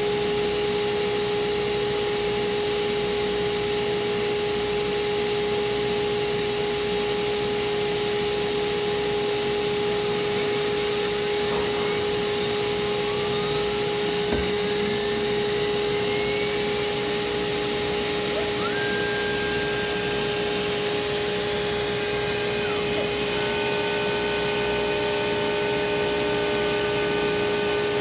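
CNC router running, with a steady high spindle whine over a rushing noise. Fainter tones glide upward partway through, and a few new steady tones join in the last few seconds.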